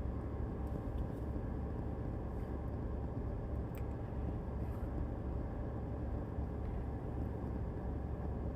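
Steady low rumble with a faint hiss above it, and one faint click a little under four seconds in.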